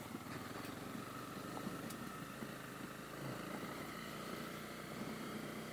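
Honda CB250R's single-cylinder engine running steadily at low speed on a gravel road, heard faint and muffled through a helmet-mounted camera's microphone.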